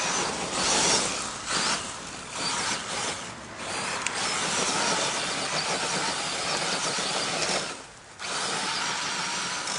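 Electric radio-controlled truck driving over rough ground: a motor whine and tyre noise that swell and ease with the throttle, then run steadily, dropping off briefly near the end.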